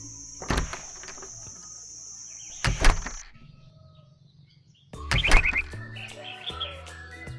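Three sharp knocks, about half a second, three seconds and five seconds in, over faint steady background music, with a high steady tone that cuts off after the second knock and short high chirps following the third.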